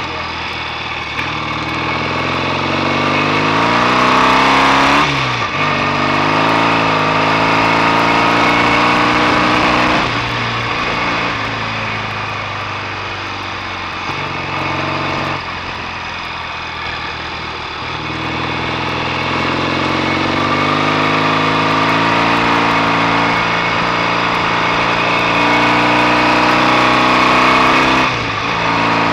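BSA A65 650 cc parallel-twin engine pulling under acceleration while riding. The pitch rises steadily and falls sharply at each gear change, about 5, 10, 15 and 28 seconds in.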